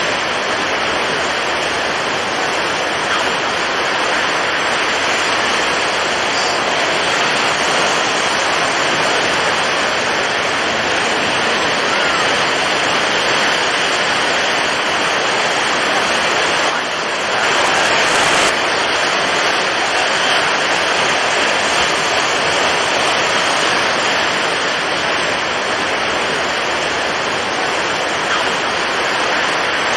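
Storm at sea: strong wind and breaking waves blending into a loud, steady rush of noise, with a brief dip about seventeen seconds in.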